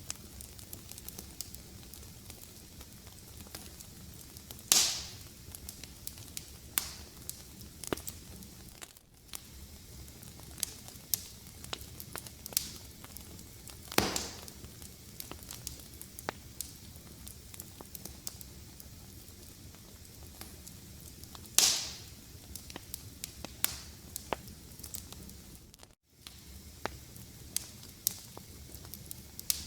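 Wood fire in a fireplace crackling, with a steady low hiss and frequent sharp snaps. Three louder pops, each trailing off in a brief hiss, come about five, fourteen and twenty-two seconds in. The sound dips briefly about nine seconds in and almost cuts out for a moment about twenty-six seconds in.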